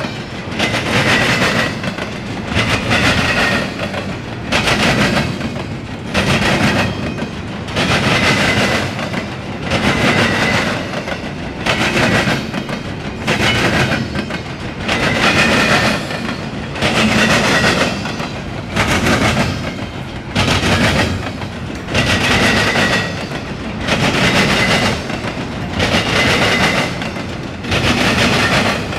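CSX intermodal freight train rolling past, its cars' wheels clacking and grinding on the rails, the sound swelling and dropping about every two seconds as each car goes by.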